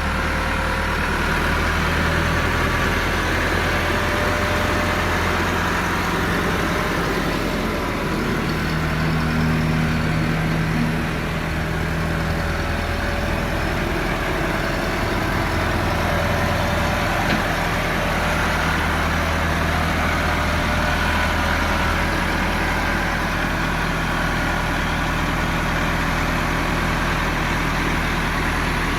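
Massey Ferguson MF 375 tractor's diesel engine running steadily under the front loader's hydraulic work, its note shifting briefly a couple of times.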